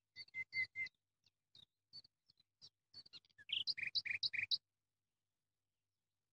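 A small bird chirping: a few short high chirps, scattered single notes, then a quick run of chirps about three and a half seconds in that stops about a second later.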